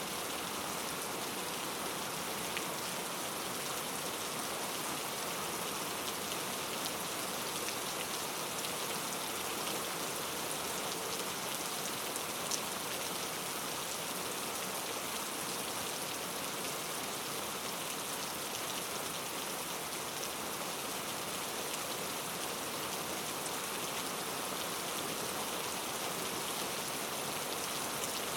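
Steady rainforest rain: an even, dense hiss of falling drops, with one sharper drop tick about twelve seconds in.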